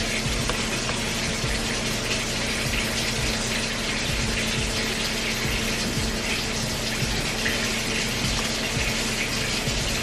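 Kitchen tap running steadily into a sink, a constant rush of water with a faint low hum beneath it.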